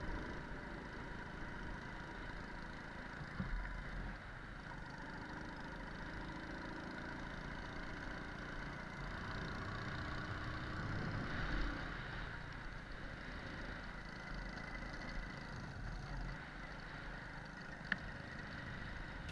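Alpha moped's small single-cylinder four-stroke engine running faintly and steadily, with a couple of small knocks.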